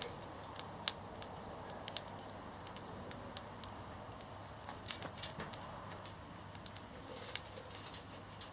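Small wood fire crackling in a backyard fire pit: scattered sharp pops and snaps at irregular intervals over a faint steady hiss.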